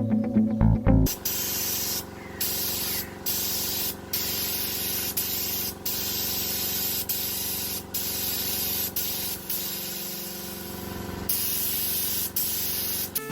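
A steady, loud spraying hiss starts about a second in and is broken by several short pauses, with faint music underneath.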